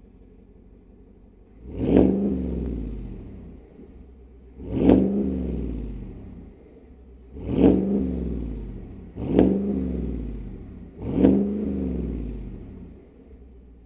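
2021+ Cadillac Escalade's 6.2-litre V8 heard through an AWE 0FG true-dual catback exhaust, blipped five times from idle. Each rev rises quickly and falls back to a steady idle.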